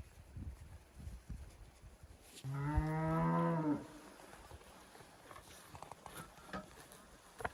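A cow mooing once: a single steady call of just over a second, with faint clicks and handling noises around it.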